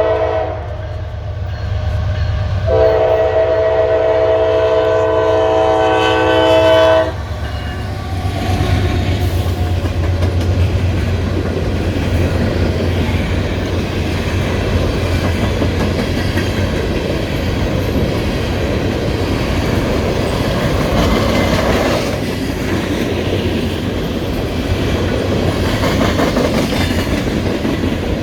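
Norfolk Southern diesel locomotive sounding its horn, a steady multi-note chord held for about four seconds that cuts off sharply, over the engine's low rumble. The loaded coal train then rolls past, with the wheels clattering steadily on the rails.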